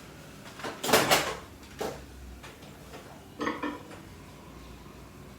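Kitchen dish handling: a few separate knocks and clatters of a dish being moved, the loudest about a second in. This fits a bread-pudding dish being taken out of the microwave.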